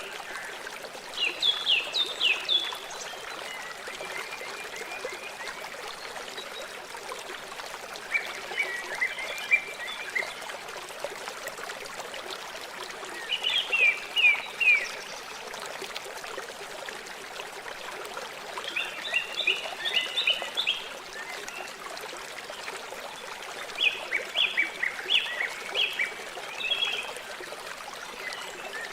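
Steady rush of a flowing river, with a bird singing over it: about five short phrases of rapid chirps, one every five seconds or so.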